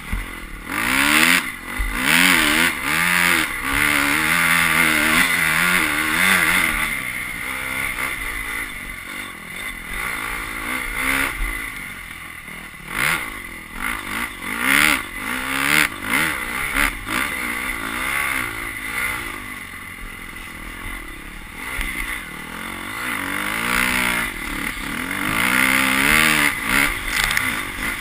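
Honda CRF250 motocross bike's single-cylinder four-stroke engine revving up and dropping back again and again as it is ridden hard, with a constant rushing noise over it.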